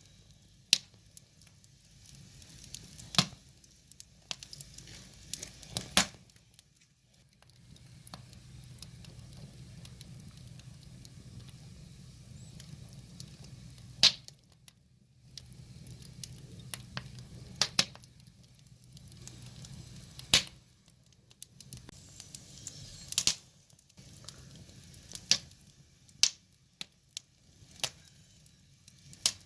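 Wood fire crackling: sharp, irregular pops and snaps from burning logs over a low, steady rush of flame.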